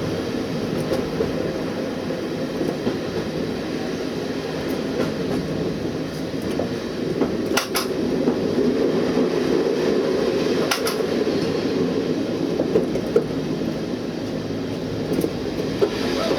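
Train running along the line heard from inside the cab: a steady rumble with a few short sharp clicks, about seven and a half and eleven seconds in.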